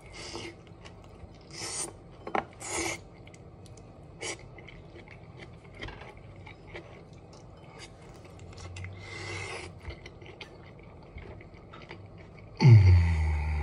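Mouth sounds of someone biting into and chewing a soft baked stuffed zucchini boat: short wet smacking and crunching bursts, clustered in the first three seconds. Near the end comes a sudden loud, low hum from the eater that falls in pitch, an appreciative "mmm".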